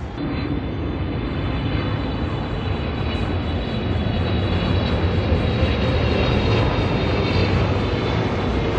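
Turbofan airliner on approach to land, its engines giving a steady low rumble with a high whine on top, growing louder as it nears.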